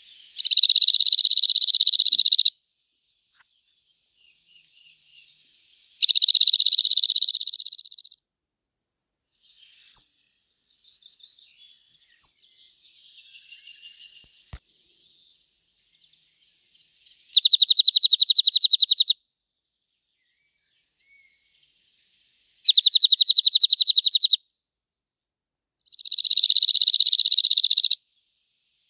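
A small songbird singing a dry, rattling trill on one high pitch, five phrases of about two seconds each, a few seconds apart. Two short, thin, very high calls and a brief twitter come between them in the middle.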